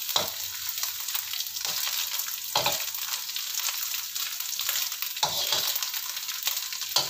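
Dried Medan anchovies sizzling in a little oil in a wok, a steady high hiss. A metal spatula stirs them, scraping and knocking against the pan several times at irregular moments.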